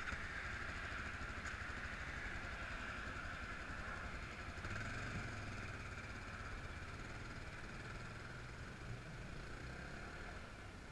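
Steady motor-vehicle noise, a low engine hum under a road hiss, swelling slightly about halfway through.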